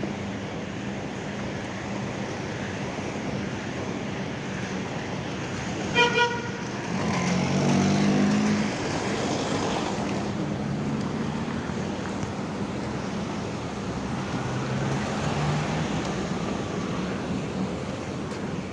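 City street traffic running steadily, with a vehicle horn giving two quick toots about six seconds in. Right after, a heavy engine passes close by, the loudest stretch, and then fades back into the traffic.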